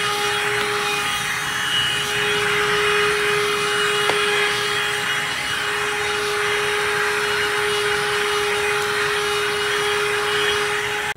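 Black+Decker Dustbuster QuickClean cordless handheld vacuum running steadily, a constant motor tone over a rush of air, then cutting off suddenly at the very end as it is switched off.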